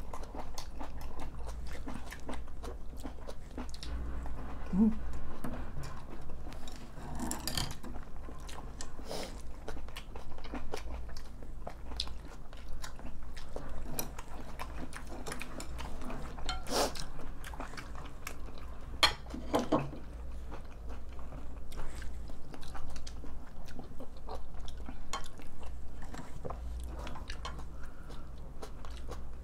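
Close-miked eating: two people chewing and swallowing mouthfuls of curry rice and side dishes, with scattered sharp clicks of metal spoons and chopsticks against the bowls over a steady low hum.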